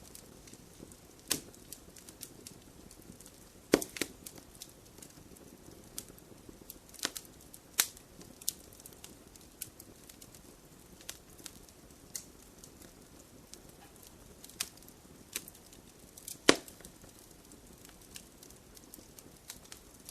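Wood fire crackling: a soft steady hiss of burning with irregular sharp pops and snaps from the logs, a few louder pops near 4, 8 and 16 seconds in.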